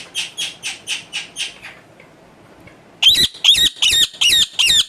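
Pet parrot screeching: a fast run of short high calls, about five a second, stops after a second and a half. After a pause come five louder, harsher screeches in quick succession.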